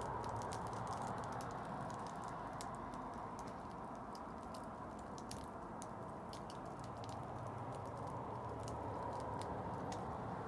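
Wood bonfire crackling: irregular small sharp pops and snaps over a steady background rush.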